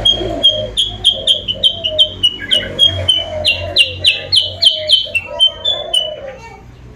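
Kutilang sutra lure song: a quick run of short, sharp whistled notes, about three a second, that stops about six seconds in. A lower cooing runs beneath it, like a dove calling.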